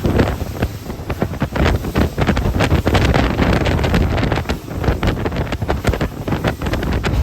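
Loud wind buffeting the microphone aboard a boat in rough seas, gusting unevenly over the rush of waves and spray.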